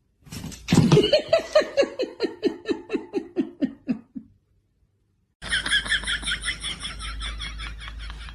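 A person laughing hard in a long run of quick 'ha' pulses, about four or five a second, falling in pitch over about four seconds. After a brief break, a different rapid, high-pitched pulsing sound starts over a low rumble.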